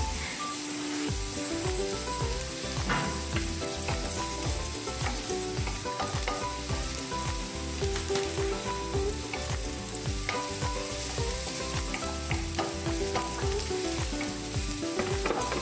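Chopped onion sizzling steadily in hot oil in a wok, with a wooden spoon stirring and scraping against the pan every second or so.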